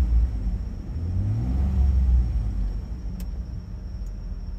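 Ford 3.5 EcoBoost twin-turbo V6 revved from inside the cab: high at first, easing off, revved up again about a second in, then settling back toward idle. Revving like this pushes coolant around fast to purge trapped air after the turbo coolant lines were opened.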